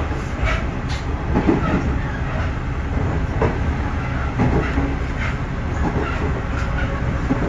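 311 series electric multiple unit running, heard from on board: a steady low rumble with scattered clicks of the wheels over the rails.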